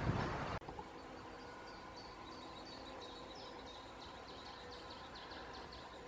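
A loud rushing noise cuts off abruptly about half a second in. Then, over quiet woodland ambience, a small bird gives short, high, falling chirps, about two or three a second.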